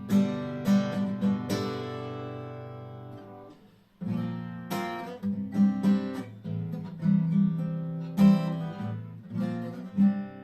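Orchestra-model multiscale (660–644 mm) cutaway acoustic guitar being played: plucked notes and chords, with one chord left to ring and fade almost to nothing about four seconds in before the playing starts again.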